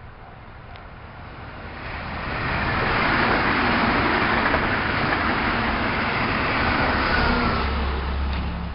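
Meitetsu electric train passing by: a rushing wheel-and-rail noise builds over about three seconds, holds loud with a deep rumble, then starts to fade near the end.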